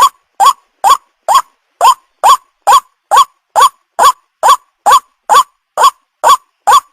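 White-breasted waterhen (ruak-ruak) call played as a bird-trapper's lure: one short note rising in pitch, repeated over and over at an even pace a little over twice a second, each note identical to the last. The call is meant to draw in young waterhens.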